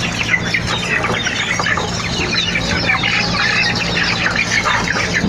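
Several chickens clucking continually in quick short calls, over a steady low hum.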